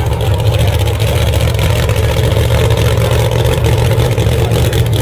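Pro Mod drag race car engines running loud and steady, with a dense, rapid low rumble.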